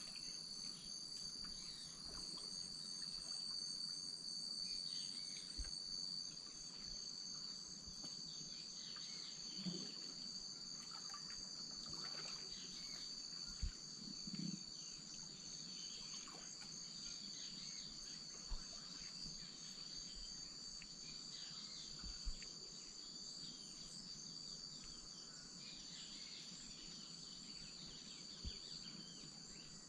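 Amazon wetland insect chorus: several steady, high-pitched trills overlap, one higher pulsing trill stops after about six seconds, and faint scattered chirps sit among them. A few short, soft, low knocks stand out now and then.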